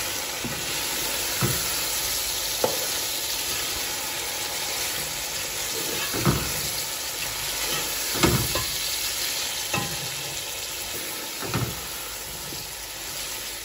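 Chicken pieces and whole spices frying in oil in a non-stick pot, a steady sizzle, as the masala is fried with the half-cooked chicken. A spatula stirs them, scraping and knocking against the pot about six times.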